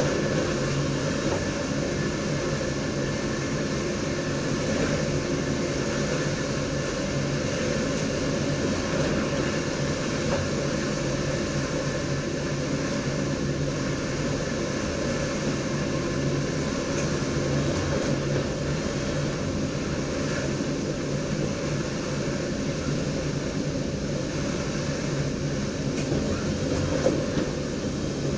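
NS DDZ double-deck electric train running steadily along the line, heard from the driver's cab: a continuous rumble of wheels on rail with a steady low hum.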